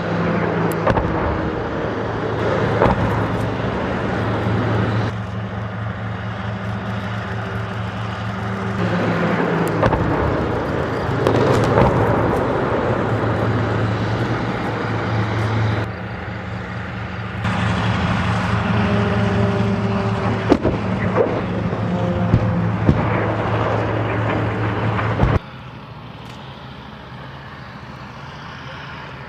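Heavy military vehicle engines running steadily, heard across several cut-together shots, with a few sharp knocks or bangs a little past two-thirds of the way through; quieter for the last few seconds.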